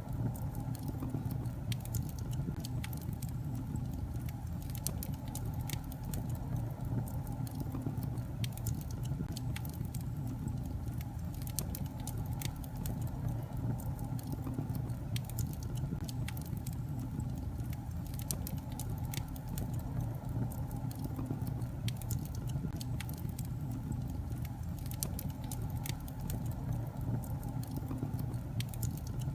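Wood fire burning in a fireplace: a steady low rumble of flames with frequent small sharp crackles and pops from the logs.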